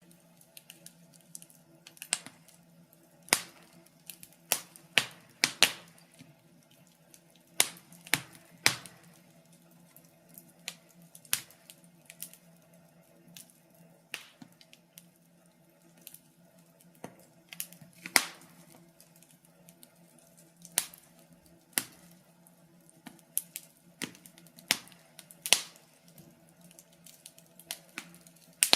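Wood fire crackling in a fireplace: irregular sharp pops and snaps, sometimes two or three in quick succession and sometimes a few seconds apart, over a faint steady hum.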